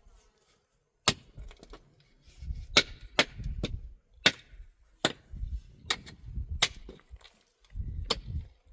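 A series of irregular sharp knocks and cracks, about nine in all, with low thuds and rumbling between them.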